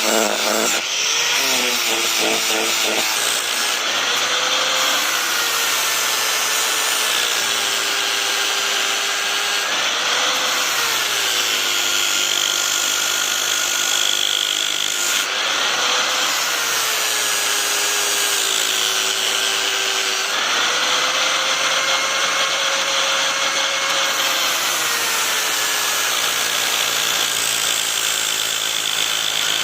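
Electric grinder grinding steel, a steady hiss of abrasion over the motor's hum, whose pitch dips and rises again several times as the blade is pressed to the wheel and eased off.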